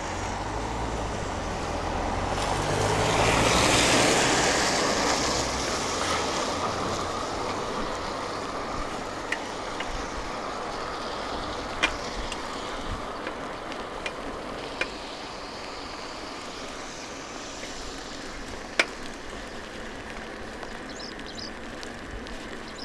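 Traffic on a wet street: a vehicle passes with tyre hiss swelling about four seconds in and fading away, then a steady hiss with a few sharp clicks.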